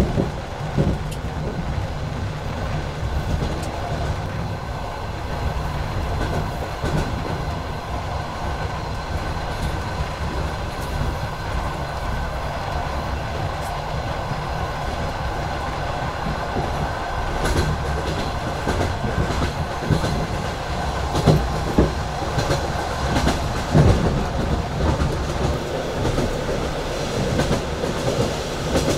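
Passenger train coaches running along the track, heard from a coach window: a steady rumble of wheels on rails with clickety-clack at the rail joints, and a few louder knocks in the second half.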